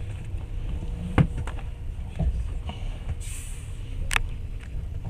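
Passenger train running, heard from inside the carriage: a steady low rumble with scattered knocks and rattles, the sharpest about a second in and just after four seconds, and a brief hiss a little after three seconds.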